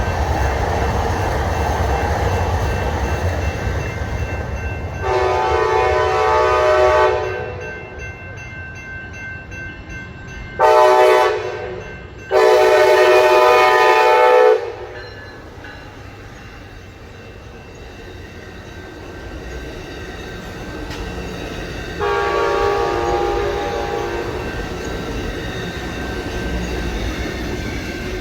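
A train running past with a steady rumble and sounding its horn several times. There is a long blast about five seconds in, then a short blast and a loud longer blast a few seconds later, and a quieter drawn-out blast near the end that slowly fades.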